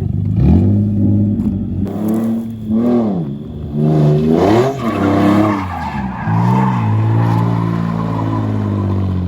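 Drift car engine revving up and falling back several times, then held at a steady high rev near the end, with the rear tyres skidding as the car slides through the turn.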